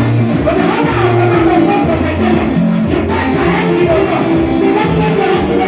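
Live worship band music with a moving bass line under sustained instrument notes, from a repeated worship chorus.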